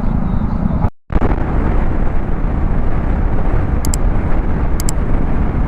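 Wind and road rush from riding a Royal Enfield Himalayan 411 motorcycle at highway speed: a dense, steady rumble, cut off by a brief dropout about a second in.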